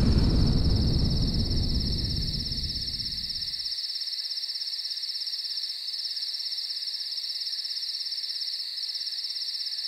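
Crickets trilling, a steady high-pitched night chorus with a fast even pulse. Low background music fades out about three and a half seconds in, leaving the crickets alone.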